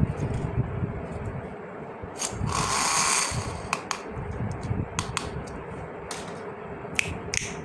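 Plastic toy pieces being handled, with scattered sharp clicks and one longer rustling scrape about three seconds in.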